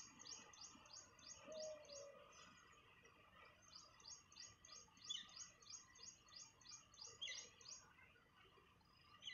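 Faint bird chirping: runs of short, high chirps at about four a second, broken by short pauses, with a few lower calls mixed in.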